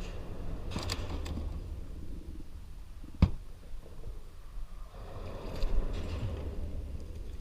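Handling noises on a kayak: scrapes and rustles, with one sharp knock about three seconds in, over a low rumble of wind on the microphone.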